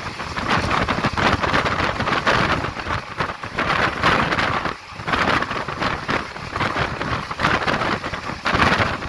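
Wind rushing over the microphone mixed with the running noise of a moving passenger train, heard from aboard. The noise swells and dips unevenly and drops briefly about five seconds in.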